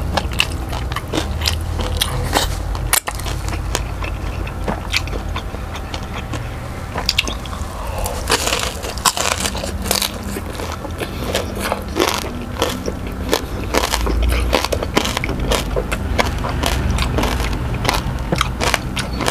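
Close-miked crunching and chewing of crispy deep-fried pork belly (lechon kawali), with many sharp crackles from the crisp skin over a steady low hum.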